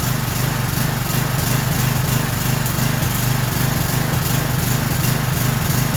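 Craftsman 6.75 hp mower engine running steadily with no blade fitted, smoking as gasoline that overflowed into the muffler burns off.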